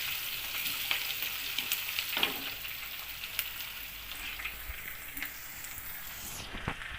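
Crushed garlic, curry leaves and fenugreek seeds sizzling in hot oil: a steady frying hiss with scattered light crackles that slowly dies down.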